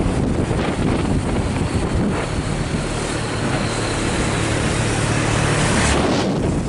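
Heavy truck engine running under load on a steep climb, a steady low drone, with wind buffeting the microphone.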